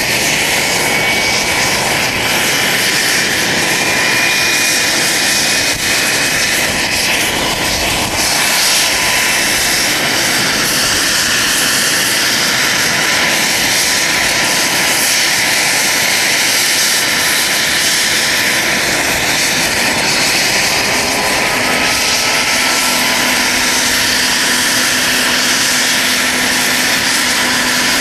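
UH-60 Black Hawk helicopter's twin turboshaft engines and rotor running on the ground during startup: a loud, steady roar with a high turbine whine, one tone of which rises slowly in pitch over the first several seconds.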